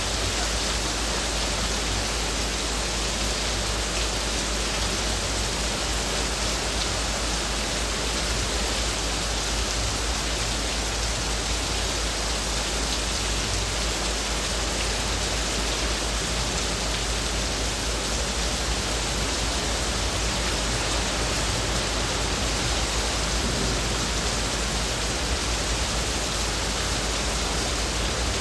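Heavy rain falling on leaves: a dense, steady hiss in which no single drops stand out.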